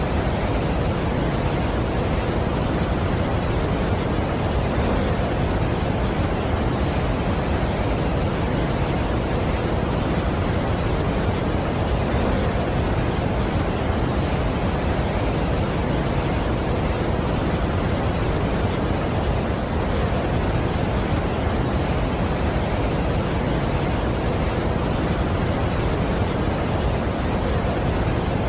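Steady, even rushing roar of a large waterfall, heaviest in the low range.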